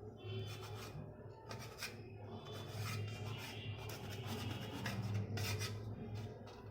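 A knife rubbing and scraping through potato-stuffed bread sandwiches, a run of short, soft, irregular rasping strokes over a low steady hum.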